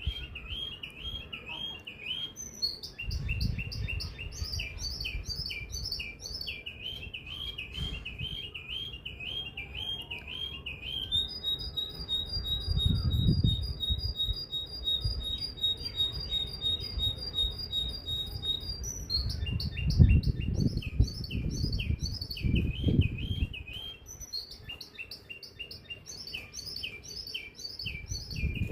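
A songbird singing: repeated short chirping phrases, and through the middle a long run of evenly spaced high notes. Low rumbling noise sits underneath.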